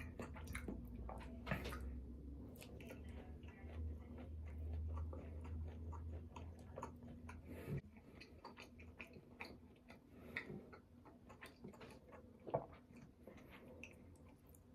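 Close-miked chewing of fast food, with many irregular wet clicks and smacks of the mouth and a few sharper clicks.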